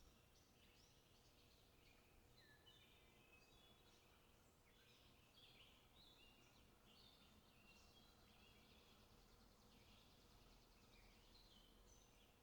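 Small birds singing and chirping faintly, many short high notes overlapping one another without a break.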